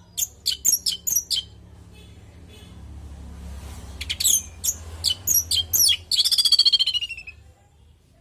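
Orange-headed thrush (anis merah) calling: quick series of sharp, high down-slurred notes in two bouts, the second running into a fast trill about six seconds in.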